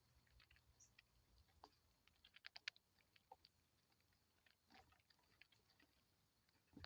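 Near silence with faint, scattered sharp clicks, a quick run of them about two and a half seconds in.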